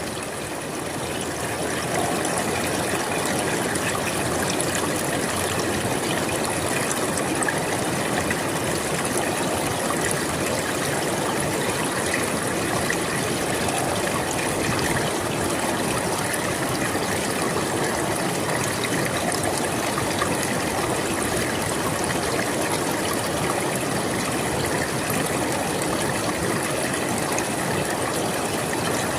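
River water flowing steadily over rocks, an even rushing with constant small splashes and trickles.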